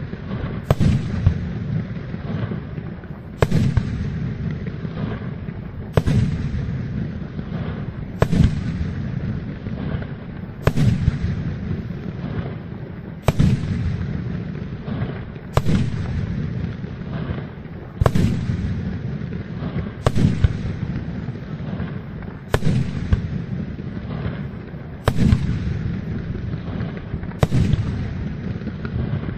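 Aerial fireworks display: a sharp, loud shell burst about every two and a half seconds, over a continuous rumble and crackle of further bursts.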